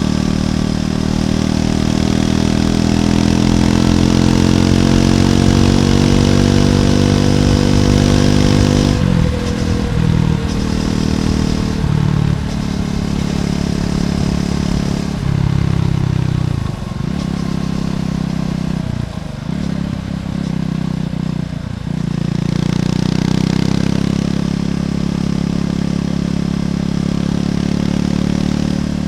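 Triumph Scrambler 400X's single-cylinder engine through its stock exhaust while riding: a steady pull with slowly rising pitch for about nine seconds, then the throttle closes and reopens several times in quick dips, and it settles to a steady note near the end.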